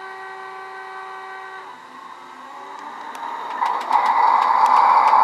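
ESU LokSound decoder playing a Union Pacific gas turbine's diesel start-up sound through the HO model's speaker. A steady multi-tone hum stops about a second and a half in. Then come a run of sharp clicks and a loud rushing noise that builds up near the end as the engine starts.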